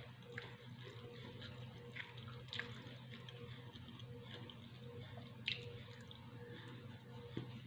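A person eating: quiet chewing with small wet mouth clicks scattered through, over a steady low hum.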